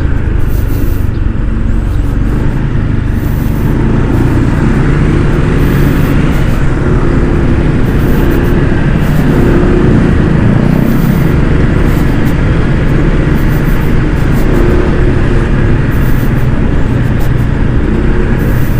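Loud, steady wind rush on a riding microphone over the running single-cylinder engine of a Honda ADV 160 scooter, with road and traffic noise, while riding.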